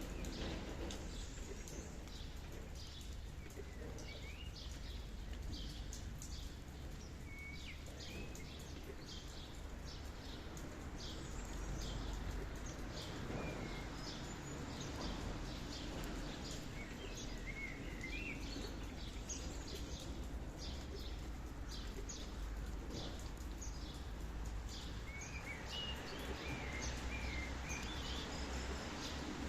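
Wild birds chirping and twittering in short phrases over a steady low rumble of outdoor ambience, with many brief high ticks throughout.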